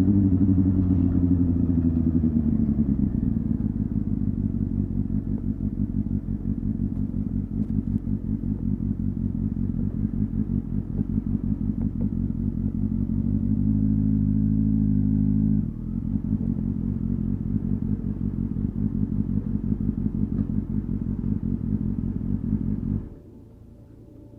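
Honda Hornet 250's inline-four engine and exhaust: the revs fall away during the first few seconds and it settles into an even, pulsing idle, holds slightly higher for a couple of seconds in the middle, then stops abruptly shortly before the end.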